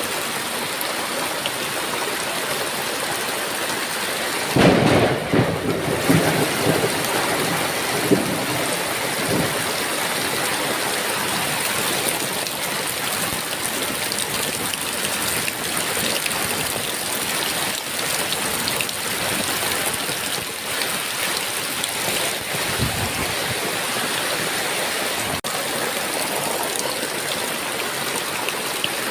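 Heavy rain falling steadily, with a loud thunderclap about four and a half seconds in that rumbles on for a couple of seconds, and a fainter roll of thunder later.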